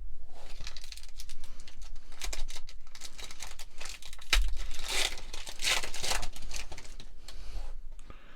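A trading-card booster pack wrapper crinkling and tearing as it is ripped open, in dense irregular crackles that are loudest around the middle.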